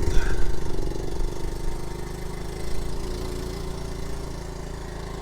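Honda Z50J1 Monkey's small single-cylinder four-stroke engine running at low, steady revs, its note holding even.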